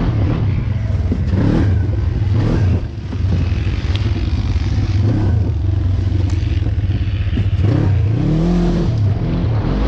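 Off-road vehicle engine running and revving, its pitch rising and falling near the end.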